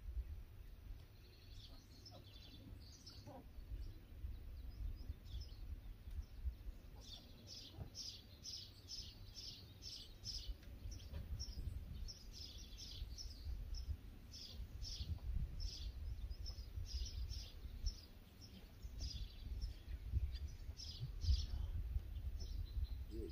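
Small birds chirping: many short, high chirps in quick, irregular runs, over a steady low rumble.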